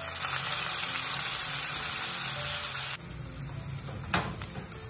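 Washed dried anchovies dropped into hot oil in a wok, the oil sizzling hard; about three seconds in it drops abruptly to a quieter sizzle with scattered pops and crackles.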